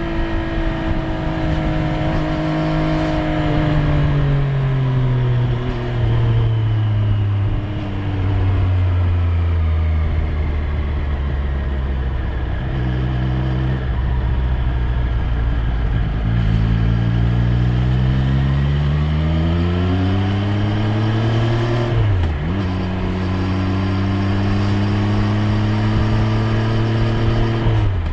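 Triumph Street Triple 765 R's inline three-cylinder engine under way. The revs fall away slowly over the first several seconds and stay low for a while, then climb steadily. About 22 seconds in they drop sharply in a gear change, then hold steady, and they drop again right at the end.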